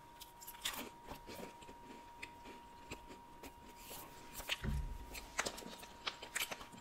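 Close-miked chewing: a bite taken, then soft crackles and wet clicks of a mouthful being chewed. A dull low thump comes about four and a half seconds in, and a faint steady tone runs underneath.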